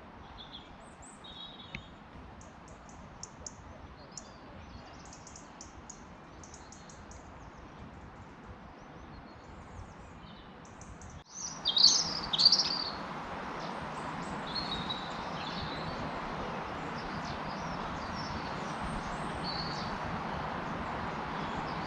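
Wild birds singing, many short high chirps and trills. A little past halfway the background suddenly gets louder, and a loud burst of calls comes close by.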